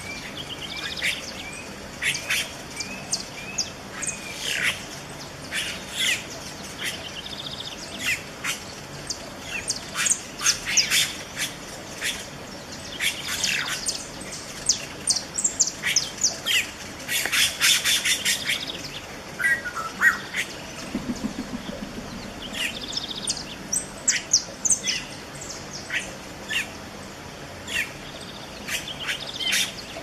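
Red-rumped cacique calling: a dense, irregular run of short, sharp squawks and chirps.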